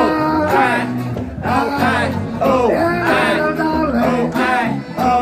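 Live reggae band playing, with guitar and bass under sung vocals.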